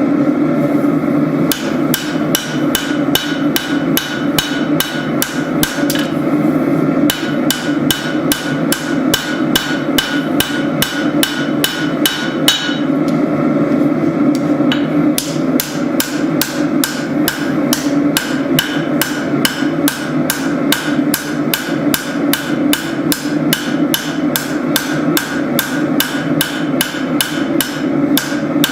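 Steady hammer blows on hot spring steel over an anvil while a tanto blade is forged, about three strikes a second, with short pauses twice. A steady drone runs underneath.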